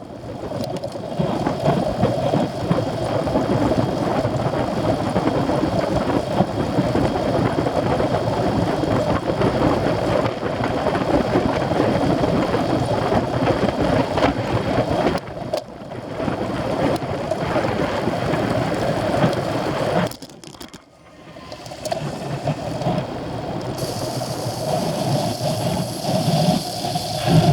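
Steady rushing wind and tyre noise from riding a racing bicycle, dropping away briefly about 15 and 20 seconds in.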